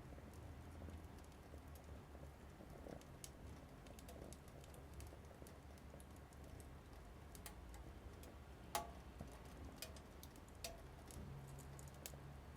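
Small wood fire crackling in a mini wood stove: faint, irregular pops and clicks, with one sharper pop near the end, over a faint low hum.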